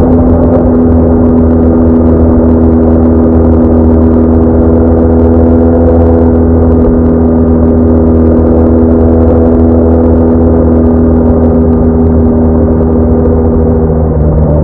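BMW R1200R flat-twin motorcycle engine running steadily at cruising speed, a constant engine drone over a low rumble, easing slightly in pitch near the end.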